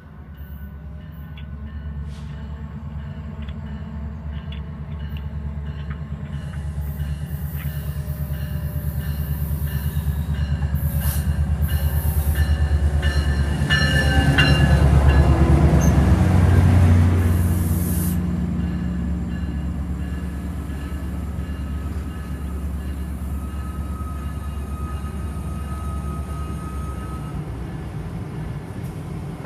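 Diesel locomotive of a VRE commuter train approaching and passing close by, its engine hum growing louder to a peak about halfway through, with rushing wheel noise and thin high squeals from the wheels and brakes. It then runs on steadily as the train comes to a stop.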